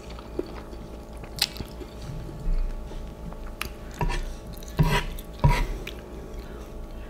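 A person chewing a mouthful of instant noodles, with a handful of short, wet mouth clicks and smacks spread through the chewing.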